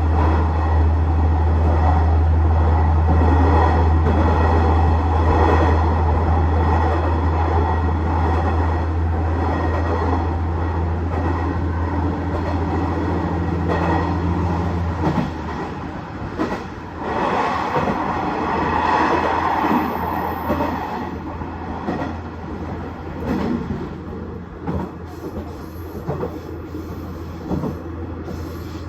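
KiHa 110 series diesel railcar running along the line: a steady low engine drone under power, with wheel and rail noise. About halfway through, the engine drone falls away as the railcar coasts, leaving quieter, uneven running noise from the wheels and rails.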